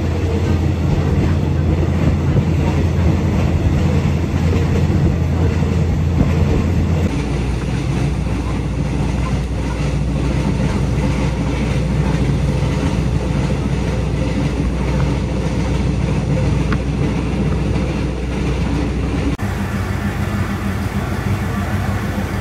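Diesel commuter train running, heard from on board: a steady low engine hum with the rumble of the carriage. The hum changes abruptly about seven seconds in and again near the end.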